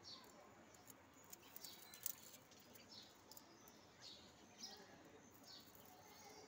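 Faint bird chirps: short, quickly falling calls repeating about once a second, with a few sharp clicks about two seconds in.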